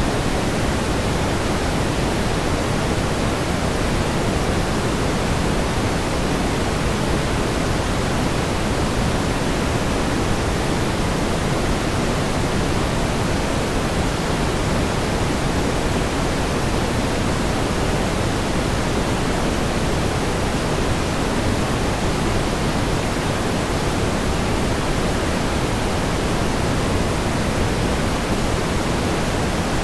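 Steady pink noise: an even, unchanging hiss, fuller in the low and middle range than white noise.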